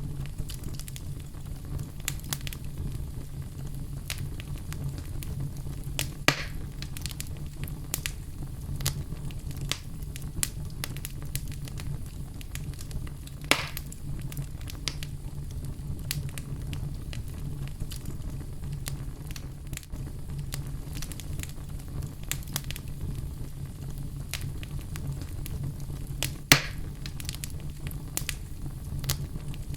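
Wood fire crackling in a fireplace over a steady low rumble of flame, with frequent small crackles and three louder sharp pops about 6, 13 and 26 seconds in.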